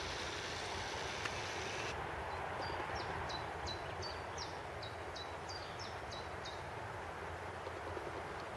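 A small songbird singing a quick series of about a dozen short, high chirps, roughly three a second, each dropping sharply in pitch, over steady outdoor background noise.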